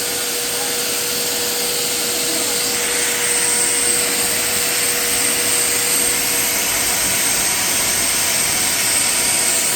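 Large shop vac running in blower mode: a steady, loud rush of air with a constant high whine, blowing dust out of a vacuum cleaner's bare motor.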